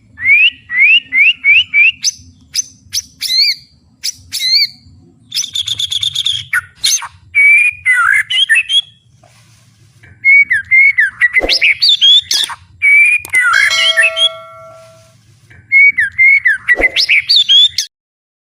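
White-rumped shama singing loudly: a fast, varied run of whistled phrases with quick rising notes, trills and short harsh notes, the mixed song with mimicked elements (isian) that fanciers prize. It stops abruptly shortly before the end.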